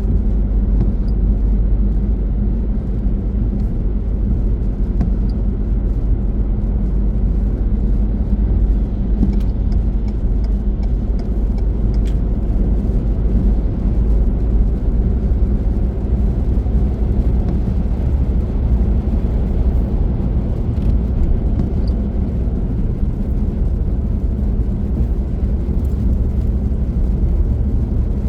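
Car driving at a steady pace: a steady low rumble of road and engine noise that does not change.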